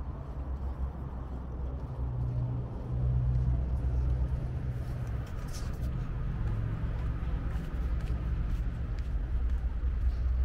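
A motor vehicle engine running with a low, steady rumble that grows louder about three seconds in.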